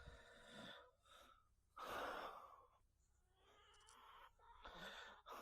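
Near silence with a few faint puffs of breath-like noise, the clearest about two seconds in.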